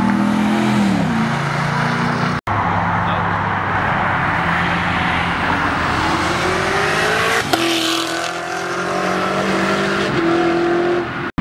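Car engines revving and accelerating along a road. The engine pitch falls about a second in, then climbs steadily until a sudden shift about seven and a half seconds in, after which it runs on steadily. The sound drops out for an instant about two and a half seconds in.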